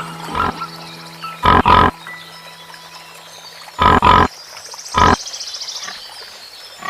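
An animal giving six short, loud calls, mostly in quick pairs, over faint background music.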